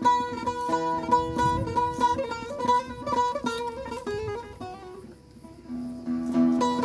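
Solo plucked string instrument playing a sad melody of quick picked notes over a repeated high note. A falling run of notes comes about four seconds in, then it goes quiet for a moment before the playing picks up again.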